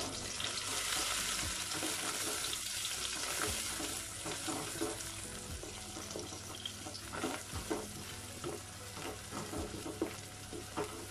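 Green chillies, onions and mint sizzling in hot oil and ghee in a stainless steel pot, stirred with a wooden spatula. The sizzle is loudest in the first few seconds after the chillies go in, then the spatula knocks and scrapes against the pot many times.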